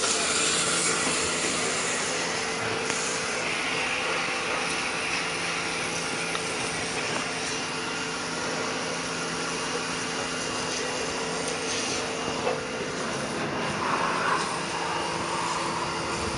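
KPT Shakti pressure washer running steadily: a constant motor hum under a broad hiss.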